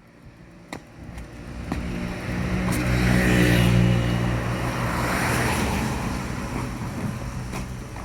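A car drives past. Its engine and tyre noise swell to a peak three to four seconds in, then fade slowly.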